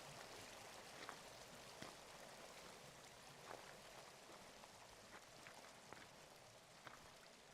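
Faint, even rush of running water, slowly fading, with a few scattered light drips or ticks.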